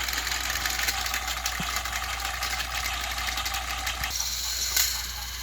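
Battery-powered toy train motors whirring steadily through their gearboxes, with rapid fine clicking. The sound thins about four seconds in, and one sharp click comes shortly after.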